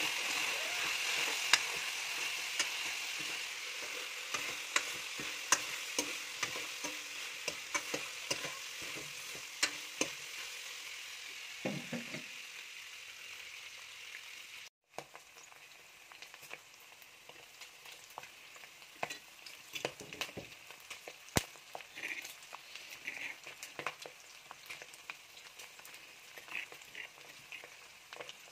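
Pork pieces sizzling in oil in a wok while a metal ladle stirs them, clinking and scraping against the pan. The sizzle is strongest at first and dies down over the first half. After a short break about halfway, quieter sizzling with scattered clicks follows.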